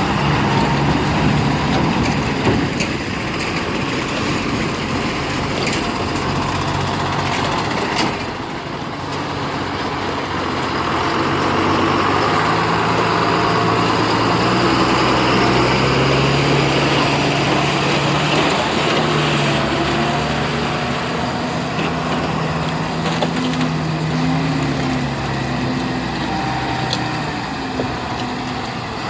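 Tata heavy diesel trucks' engines running under load, the engine note rising and falling over several seconds as the trucks move past.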